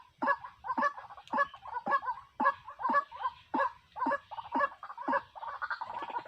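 Truwok (white-breasted waterhen) calling over and over, short harsh notes about twice a second, running into a quicker, denser chatter near the end.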